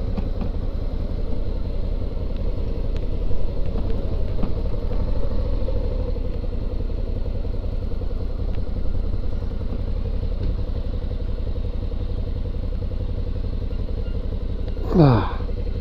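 Suzuki V-Strom 650's V-twin engine running steadily as the motorcycle rides at low speed, its note rising slightly about four seconds in.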